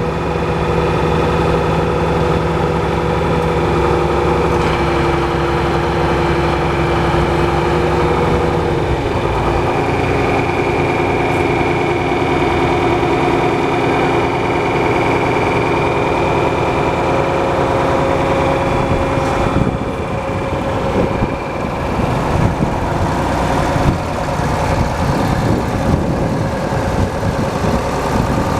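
John Deere 4230 tractor's six-cylinder diesel engine running steadily, near idle. Its note shifts about nine seconds in and again around twenty seconds.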